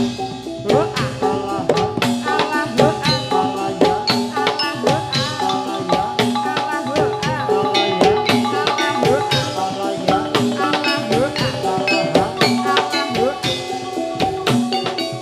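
Gamelan ensemble playing jathilan dance accompaniment: a dense run of struck metallophone notes over steady drumming.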